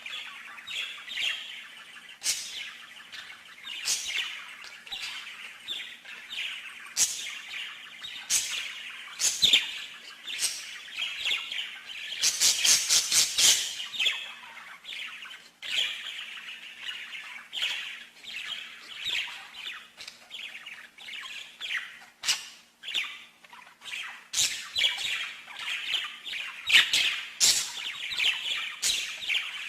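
Songbird singing: a run of chirps and sharp high calls, with a fast trill of quickly repeated notes about halfway through. A faint steady hum lies underneath.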